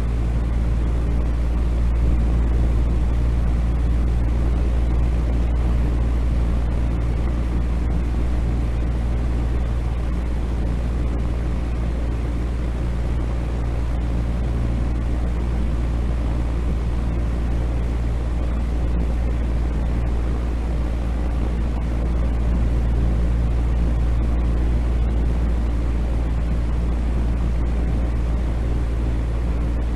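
Steady, unchanging noise for sleep, deep and rumbling rather than hissy, with a faint low hum running through it, like the drone of an engine or cabin.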